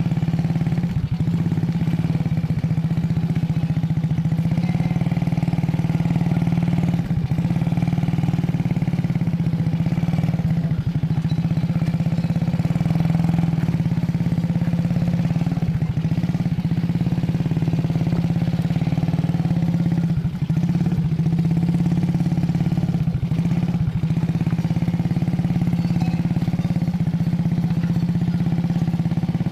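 A small engine running steadily at an even pitch throughout.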